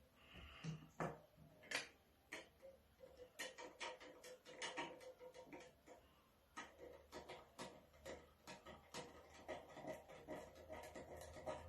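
Faint, irregular light clicks and taps of small plastic containers being handled while food colouring is poured into cups of water, coming in quick clusters from about three seconds in.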